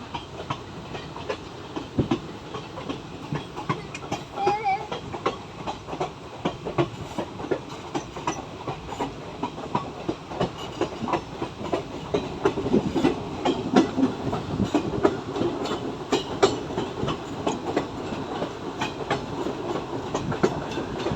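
Moving train: a steady rumble with many irregular clicks and knocks of the wheels over the rails, growing louder about twelve seconds in.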